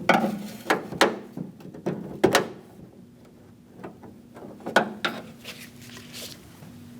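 Sharp clicks and knocks of a flat-blade screwdriver prying a plastic lock-rod clip and its lock tab inside a van's rear door handle assembly. The clicks are bunched in the first couple of seconds, with one more near the end, over a low steady hum.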